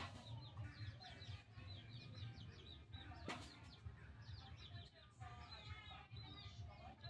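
Faint chirping of small birds: many quick, high chirps one after another over a steady low hum, with a single click about three seconds in.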